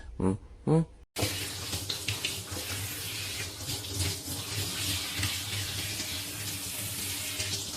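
Steady rushing, hissing noise, like water running from a tap, starting abruptly about a second in with a low hum underneath.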